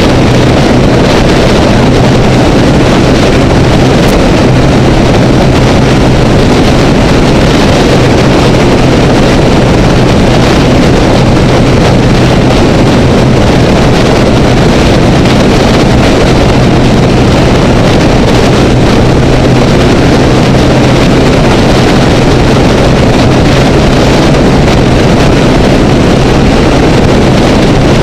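Honda Rebel motorcycle engine running at a steady freeway cruise, one constant drone with no change in revs, mixed with heavy wind rush over the camera housing.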